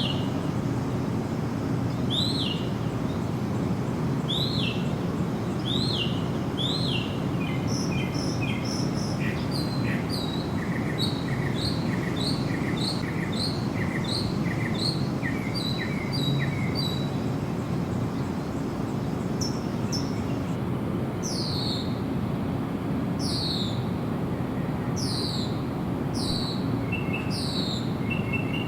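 Songbirds calling: a short arched note repeated about once a second, then a fast run of paired notes, then clear downslurred whistles repeated about once a second near the end, over a steady low rushing background.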